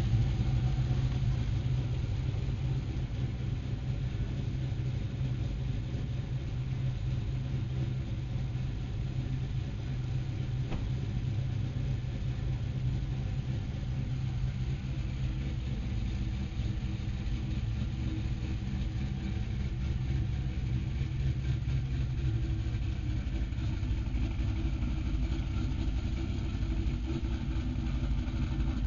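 2006 Pontiac GTO's LS2 V8, fitted with a Torquer 2 camshaft, idling steadily while it warms up after a cold start.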